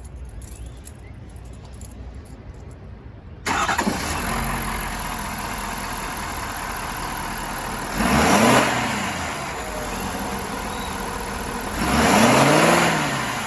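Ford F-350 pickup's engine starting about three and a half seconds in and settling into a steady idle. It is then revved twice, a short blip about eight seconds in and a longer rev near the end, each rising in pitch and falling back to idle.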